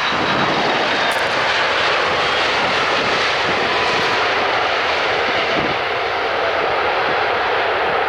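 Jet airliner's engines running loud and steady as the aircraft passes close by, a dense rushing roar with a faint high whine in the first second.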